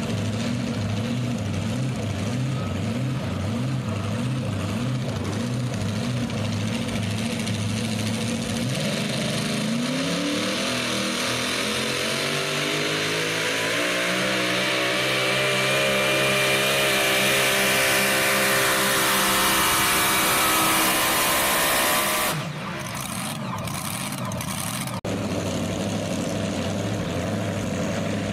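Super modified four-wheel-drive pulling truck's engine idling with a lumpy, pulsing note, then revving up about nine seconds in and running hard at high revs, its pitch and loudness slowly climbing under load. A little after twenty-two seconds it cuts back sharply, and it later settles back to the lumpy idle.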